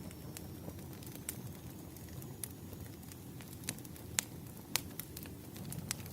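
Firewood fire crackling: scattered sharp pops and snaps over a low steady rumble of the flames, the two loudest pops a little past the middle.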